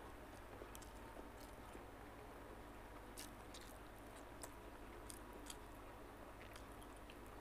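Faint chewing and small wet mouth clicks of a person eating rice and fried eel by hand. A low steady hum lies under them.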